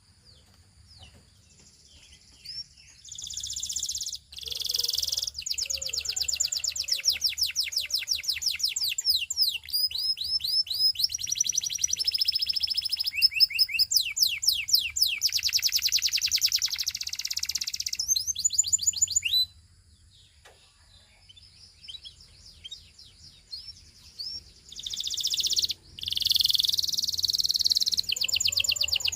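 Belgian singing canary singing long phrases of rapid, high-pitched trills made of quickly repeated sweeping notes. The song breaks off about two-thirds of the way through for a few seconds of near-quiet, then starts again.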